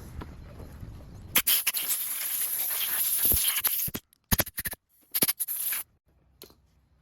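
A pressurized spray hissing during carburetor cleaning: one long burst of about two and a half seconds, then a few short bursts, then it stops.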